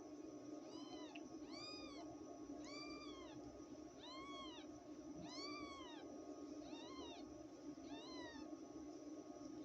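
A newborn kitten mewing repeatedly: about ten thin, high mews, roughly one a second, each rising and then falling in pitch.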